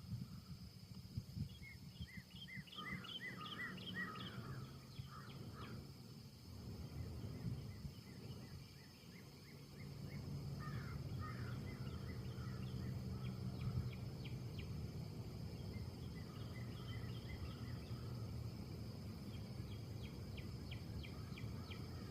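Small birds chirping in quick runs of short repeated notes over a low, steady rumble that grows slightly louder about halfway through.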